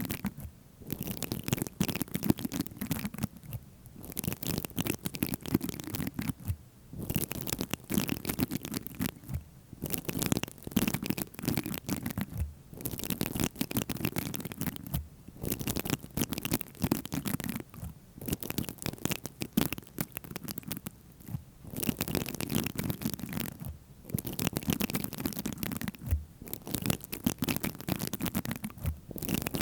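Close-miked tapping and scratching on objects, rapid and dense, in bursts of two to three seconds with short pauses between them.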